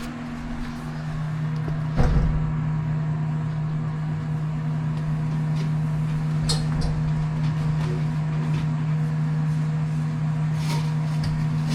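Steady machine hum with a low, even drone, swelling a little at first, with a sharp knock about two seconds in and a few light clicks.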